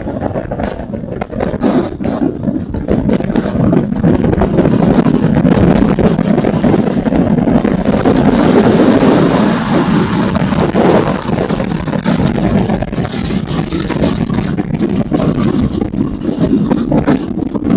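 Motorcycle engine and exhaust running steadily and loudly while riding.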